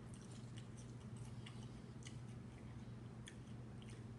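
Close-miked mouth chewing food, with faint irregular wet clicks, over a steady low hum.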